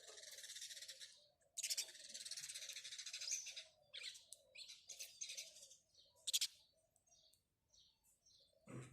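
House sparrows chirping in a run of rapid chatter, breaking into shorter bursts and thinning out over the last few seconds.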